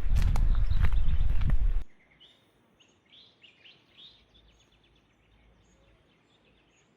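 A loud low rumbling noise with sharp knocks cuts off abruptly about two seconds in. A small bird then sings a quick run of short, high chirps, faint against a quiet background.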